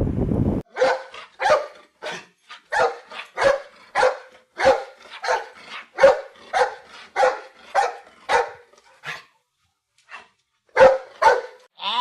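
A dog barking repeatedly in short, sharp barks, about two a second, breaking off about three-quarters of the way through and then giving a few more barks near the end.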